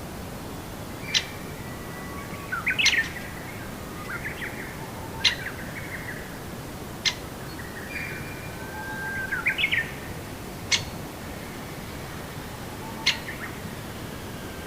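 A songbird calling and singing: sharp chips every couple of seconds between short whistled phrases that glide up and down, over a steady background hiss.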